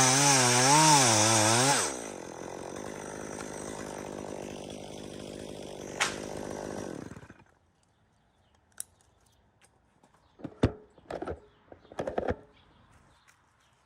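Two-stroke chainsaw running at high revs and blipping up and down, then dropping back about two seconds in and dying away around seven seconds in. A few short knocks and clatters follow near the end.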